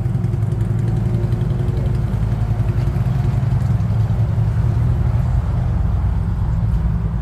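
Car engine idling steadily with a loud, low-pitched running sound.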